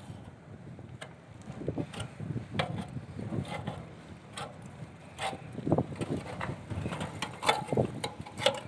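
Irregular clicks and knocks, a few every second, with short scraping sounds among them, over a low steady hum.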